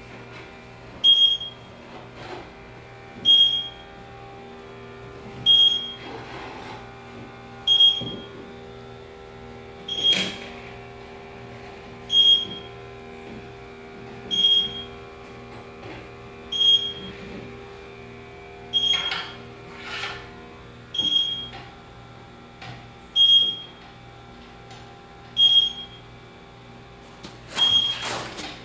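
Electronic refrigerant leak detector beeping at an even, slow rate, one short high beep about every two seconds, the steady idle rate of a sniffer that is finding no refrigerant. A steady low hum runs underneath, with a few handling clicks and rustles.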